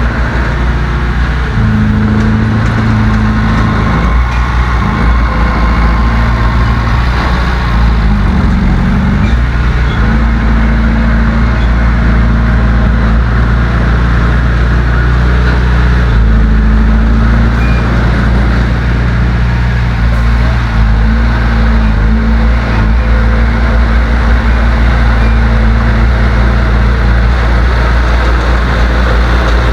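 Loud heavy diesel engine of earthmoving machinery, a bulldozer or dump truck, running under load. Its pitch shifts several times and dips and rises again about eight seconds in.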